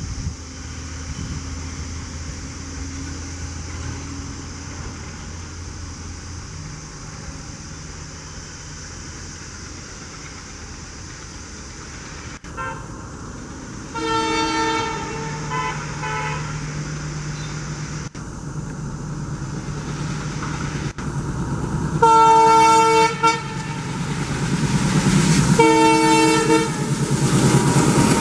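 WDG-3A ALCO diesel locomotive approaching with its engine running, the hum growing louder. Its horn sounds a blast and a couple of short toots about halfway through, then two long blasts in the second half. The rumble of the passing train rises near the end.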